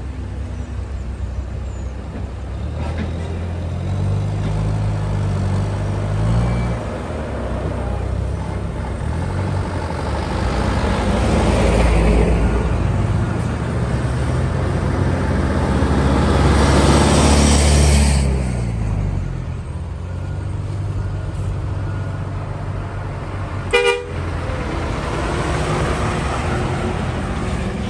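Heavy diesel trucks running past one after another, their engines' pitch shifting as they go, with one passing loudest a little past the middle. Near the end comes one short horn toot.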